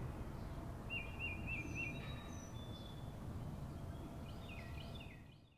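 Outdoor ambience: songbirds calling over a steady low background rumble, with a quick run of four repeated notes about a second in, a few thin high whistles, and a cluster of falling chirps near the end.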